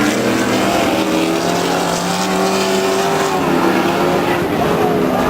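Off-road super trucks' race engines running hard on the course, more than one engine note at once, their pitch falling and rising again as the drivers lift and get back on the throttle.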